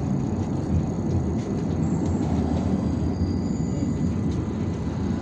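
Cabin of an IVECO Urbanway 18M articulated city bus under way: steady engine and road rumble, with a faint high whine in the middle.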